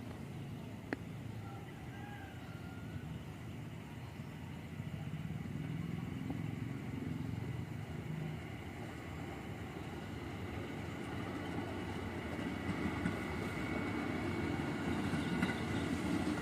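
Steady road traffic noise, motor vehicles such as motorcycles and cars, slowly growing louder toward the end.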